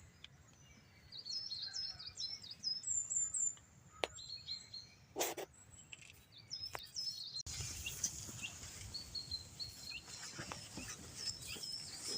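Small birds chirping and singing in quick, high, repeated notes, with a single sharp knock about five seconds in. About halfway through, a louder steady rushing background comes in under the birdsong.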